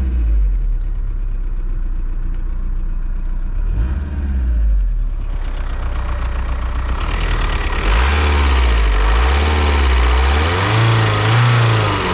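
1.9 TDI four-cylinder turbodiesel engine running with diesel clatter. It is fairly steady for the first few seconds, then grows louder from about halfway, its pitch rising and falling several times as the revs climb and drop.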